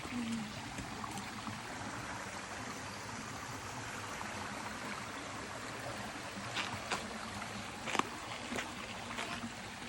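Steady rushing of a forest stream, with a few faint sharp knocks a little past the middle.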